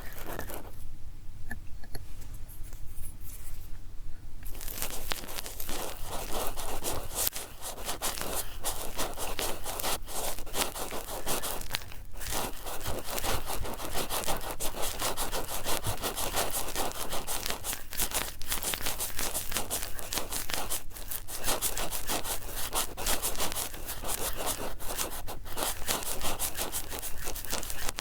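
Close-miked cotton swabs rubbing and scratching in quick, dense strokes. It is much quieter for a few seconds near the start, then runs on with only brief pauses.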